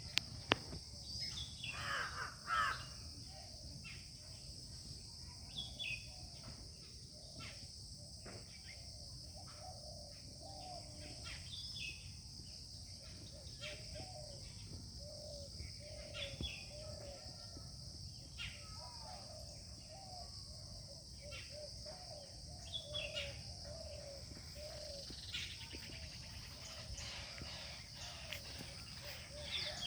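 Birds calling in a garden: many short repeated calls and a few sharper sweeping notes, over a steady high-pitched drone.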